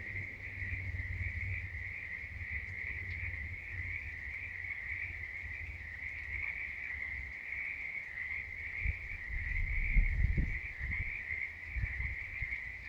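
Chorus of many frogs calling at once, blending into a steady, high-pitched, unbroken trill. Low rumbles and thumps come through about nine to eleven seconds in.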